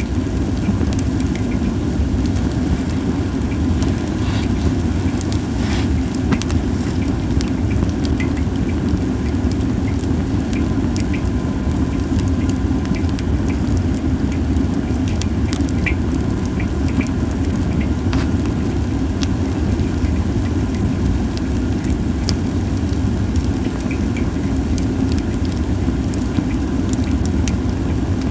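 Japanese white pine firewood burning, crackling with frequent sharp, irregular pops over a steady low rumble.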